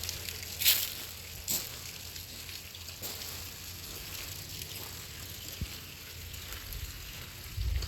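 Outdoor ambience while walking: a steady hiss with a low wind rumble on the microphone, and a few brief crunches in the first second and a half. The rumble swells near the end.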